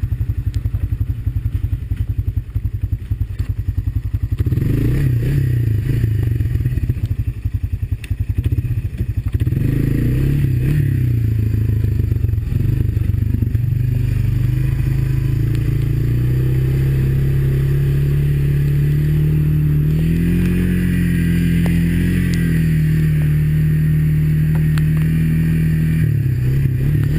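Single-cylinder four-stroke Honda ATV engine running on the trail, its speed rising and falling unevenly through the first half, then climbing and holding a higher, steadier speed for the rest.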